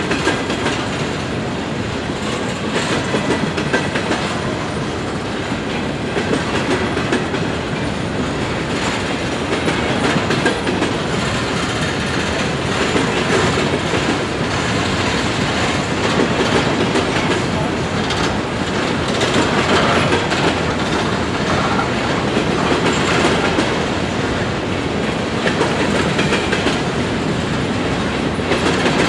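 Freight train of covered hopper cars rolling past at a steady speed, a continuous rumble of steel wheels on the rails.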